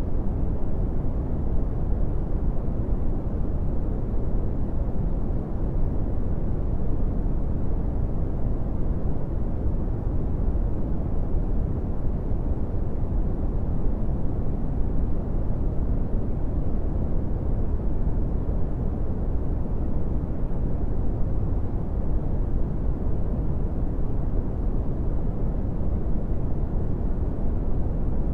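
Steady brown noise: an even, deep rumbling hiss with most of its energy low and little treble, unchanging throughout.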